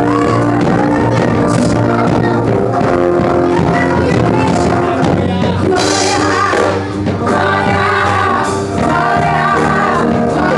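Live gospel band playing loudly, with singing over the music.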